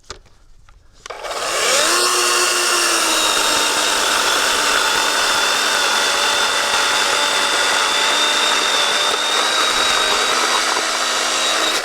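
DeWalt cordless battery chainsaw spinning up about a second in, its electric motor and chain running steadily with a high whine while cutting a thick log, then cutting off suddenly near the end when the trigger is released.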